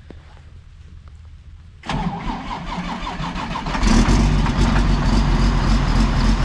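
Heavy equipment engine being started: the starter cranks rapidly for about two seconds, and the engine catches about four seconds in and runs steadily.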